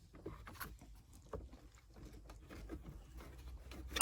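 Faint handling noises of plastic dashboard parts: scattered small clicks and taps as the climate-control panel and its control cable are worked loose, ending in a sharper click, over a low steady hum.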